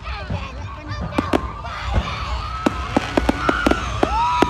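Aerial fireworks going off: a quick series of sharp cracks and bangs over a low rumble, with spectators talking. A long steady whistle starts near the end.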